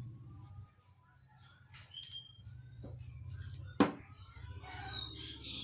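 Small birds chirping in short scattered calls, over a steady low hum, with one sharp click or knock a little before four seconds in.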